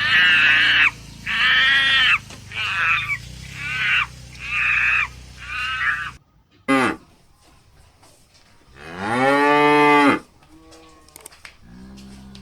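A run of about six high-pitched animal calls, roughly one a second and getting quieter, then a cow gives one long, loud moo about nine seconds in, followed by a few fainter lower calls.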